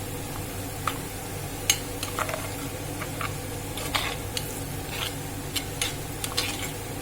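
Golden-browned onions sizzling in ghee and groundnut oil while a spoon stirs through them to coat them in garam masala and chilli powder. Irregular clicks of the spoon against the pot sound over the steady frying hiss.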